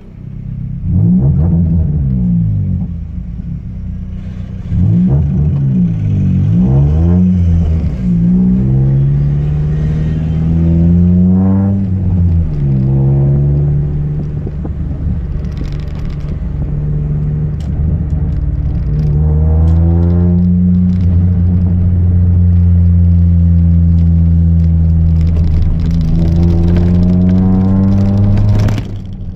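Chevrolet Celta 1.0 four-cylinder engine, fitted with a 4x1 header and a two-inch exhaust without mufflers, being revved. It starts with several quick blips of the throttle, then longer climbs in revs, and is held at high revs for several seconds before dropping back near the end.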